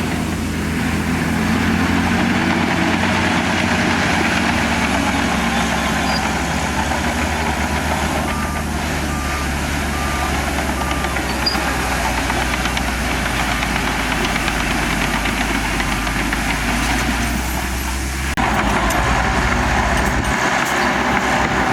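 Diesel engine of heavy earthmoving machinery running steadily, with a faint reversing alarm beeping about four times near the middle. The engine sound changes abruptly near the end.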